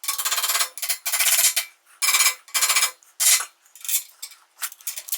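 Hand tool working small steel parts in quick repeated strokes, about one to two a second, each stroke a short rapid metallic rasp.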